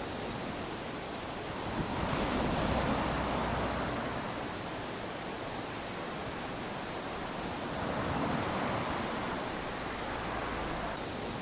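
Small ocean waves lapping onto a sandy beach: a steady wash of surf that swells twice, about two seconds in and again about eight seconds in.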